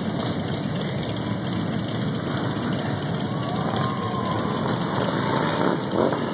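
Motorcycle engines running and passing in steady traffic, with crowd voices mixed in.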